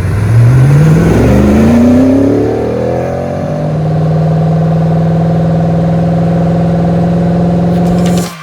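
GM LT1 V8 engine revving: its pitch climbs over the first three seconds or so, then holds steady at raised revs until it cuts off suddenly near the end.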